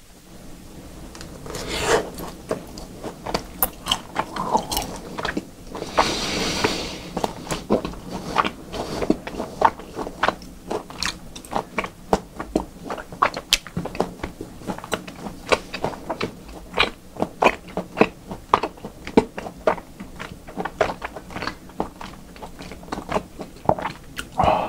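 Close-up chewing of raw beef, with many quick mouth clicks and a short rush of noise about six seconds in.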